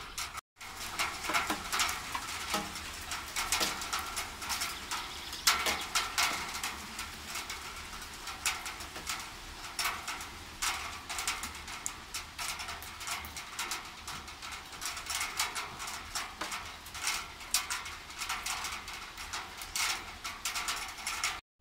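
Light rain falling, with many small drops ticking irregularly and quickly one after another.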